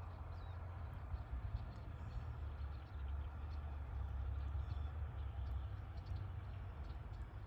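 A steady low rumble, with faint short bird chirps scattered over it.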